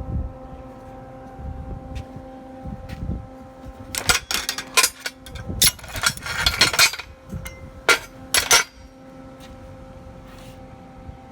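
Metal parts and hand tools clanking and knocking, with a dense run of sharp metallic hits and scrapes between about four and nine seconds in, over a steady hum.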